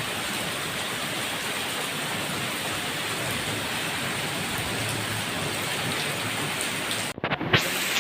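Steady rain falling, an even hiss of water. About seven seconds in it cuts off abruptly, and a few sharp knocks follow.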